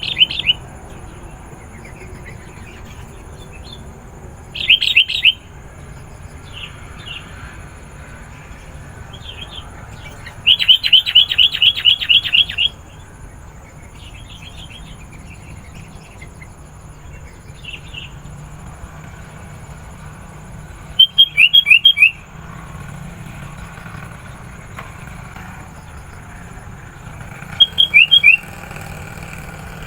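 Sooty-headed bulbul calling in loud bursts of rapid chirps. A short burst comes about five seconds in, a longer run of chirps around eleven to thirteen seconds, and two short bursts near twenty-one and twenty-eight seconds, with faint calls in between.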